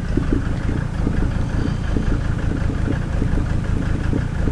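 1990 Mercedes-Benz 300D diesel engine idling steadily with a fast, even diesel clatter. The owner calls the idle rough.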